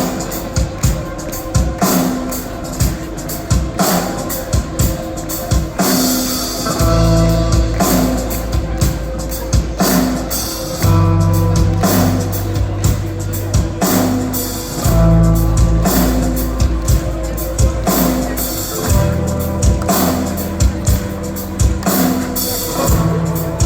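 Live rock band playing loud: drums and guitars, with big drum hits about every two seconds and heavy, bass-laden passages that come in and drop out.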